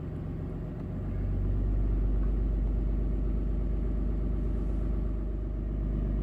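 Dodge Ram pickup's engine idling, a steady low rumble that gets louder about a second in.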